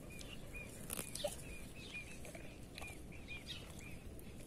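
Small birds chirping: a quick, even series of short high chirps, about two to three a second, with a few higher falling calls mixed in.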